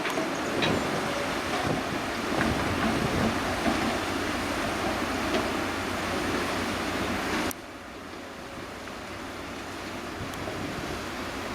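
Wind buffeting the microphone, a steady rushing noise with a few faint clicks, dropping sharply about two-thirds of the way through.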